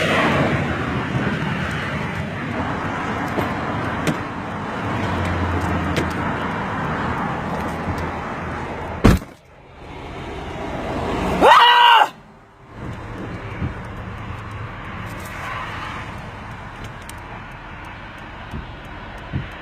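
Steady road-traffic noise, with one sharp knock about nine seconds in and a short, loud, pitched cry about two seconds later.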